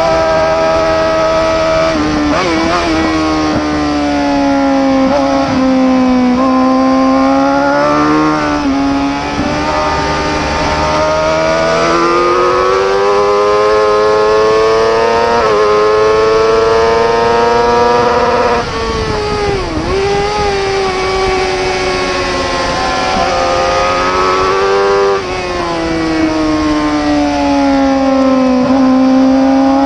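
Superbike racing motorcycle engine at full race pace, its revs climbing under acceleration and falling away repeatedly, with quick drops in pitch at the gear changes and braking points.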